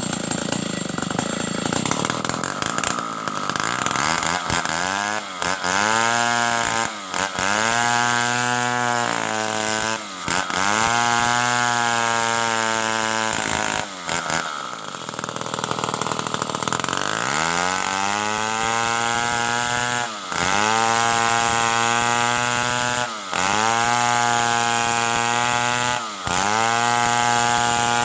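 Stihl 070 two-stroke chainsaw running hard while cutting timber into boards. About every two to three seconds its engine note drops briefly and then climbs back to full speed.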